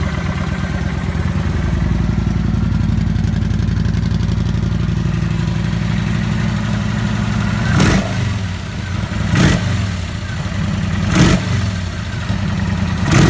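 Kawasaki VN900 Vulcan V-twin engine idling steadily, then given four quick throttle blips from about eight seconds in, the revs rising and falling back each time.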